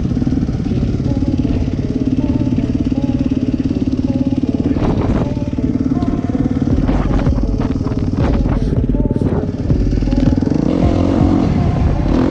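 Suzuki RM-Z250 four-stroke single-cylinder dirt bike engine running fairly steadily, its pitch rising and falling a little. A few short clicks or knocks come between about five and nine seconds in.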